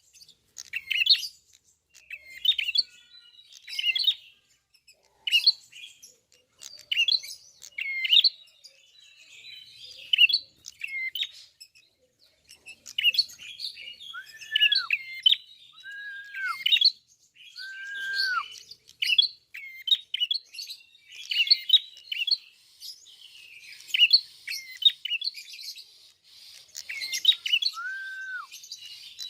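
A prinia (prenjak klawu) singing in full voice: bursts of sharp, high chirps about once a second, with a few lower, arched whistled notes in the middle and again near the end.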